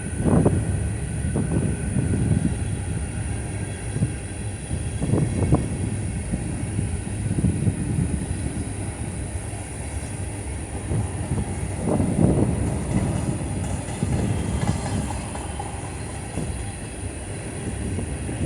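Freight train of empty grain cars rolling past, a steady rumble with irregular loud clunks and clatter from the wheels and cars.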